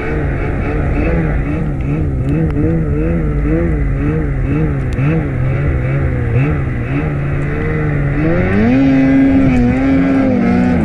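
Snowmobile engine running under changing throttle, its pitch wavering up and down, then rising and holding higher about eight seconds in.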